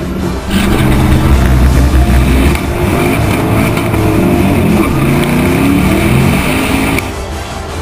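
A car launching at a drag strip and accelerating hard at full throttle, heard from a camera mounted on its side. The engine pitch climbs and drops back several times through the gear changes, then cuts off abruptly near the end as music takes over.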